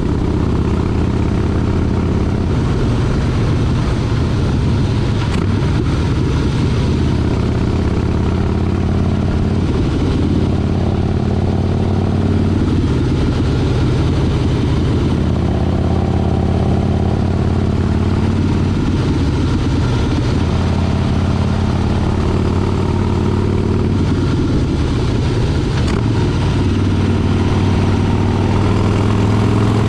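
Motorcycle engine running steadily while riding, its pitch rising and falling a little with the throttle and climbing near the end.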